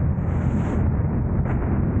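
Steady low rumble of a car on the move: road and wind noise buffeting the camera's microphone, with a brief click about one and a half seconds in.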